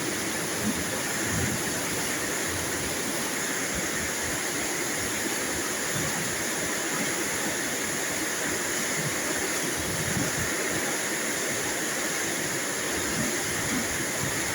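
Steady rain falling, an even hiss with no thunder in it.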